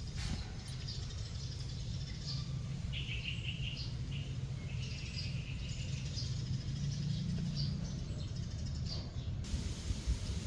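Small birds chirping, short high calls repeated on and off, over a steady low rumble.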